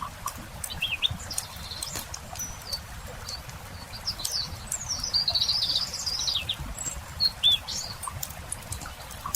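Wild songbirds chirping over the steady crackle of a wood campfire, with a longer warbling song phrase about halfway through and short chirps near the start and end.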